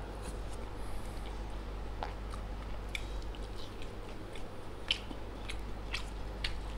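Close-miked mouth sounds of a man chewing a mouthful of rice, open-mouthed, with scattered short wet clicks and lip smacks. A steady low hum runs underneath.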